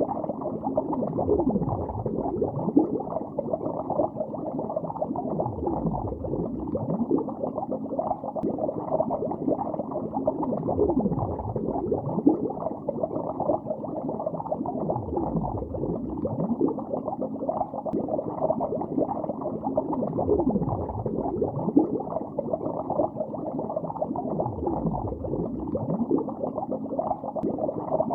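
Bubbles rising through lake water, heard underwater: a continuous muffled bubbling and gurgling, with a deeper surge about every five seconds.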